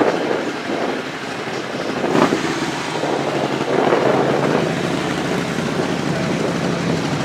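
A motor vehicle running amid steady outdoor noise, with a faint low engine hum in the second half.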